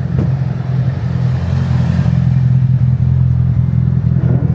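A car engine running loudly at a steady low speed, with an even, deep drone that holds its pitch.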